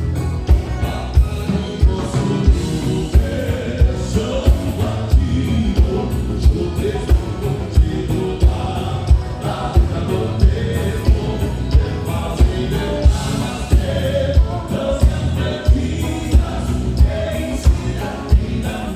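Live gaúcho band music with group singing over a steady, evenly repeating low drum beat.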